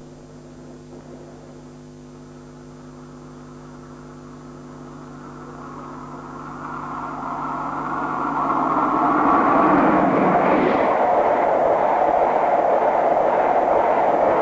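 British Rail High Speed Train (InterCity 125) approaching and passing at speed: its rushing noise builds from faint to loud over several seconds and stays loud as it goes by. A steady electrical hum runs underneath.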